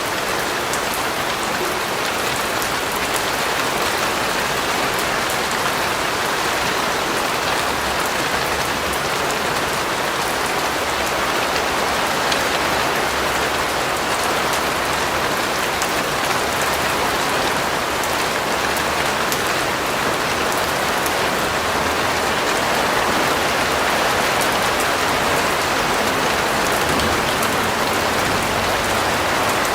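Steady, heavy rain falling on a surface, an even hiss with many fine drop ticks.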